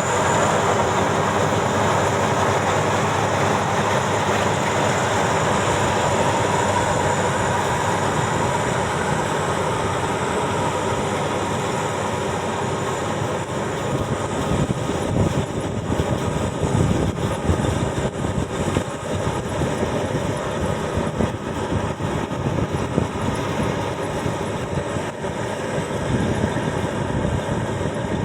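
Maxxi Bimo 102 X Top combine harvester running steadily, its engine and machinery making a continuous mechanical noise that turns more uneven in the low end about halfway through.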